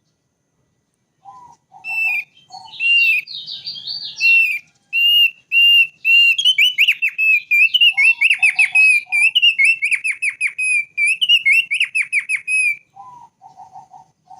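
Thick-billed white-eye (opior paruh tebal) singing: after about a second of silence, a few short low notes, then a long run of high, repeated song phrases that quicken into rapid trills. A few short low notes come again near the end.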